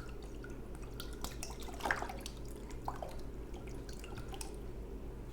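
Soy sauce poured from a bottle, glugging and dripping, with the clearest glugs about two and three seconds in. A steady low hum runs underneath.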